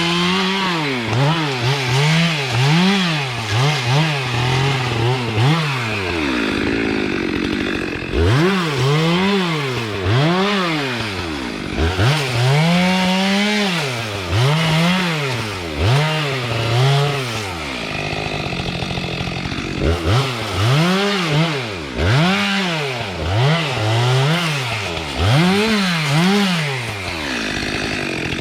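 Two-stroke chainsaw revved up and down over and over, about once a second, dropping back to idle for a couple of seconds around a quarter of the way in, again past the middle, and near the end.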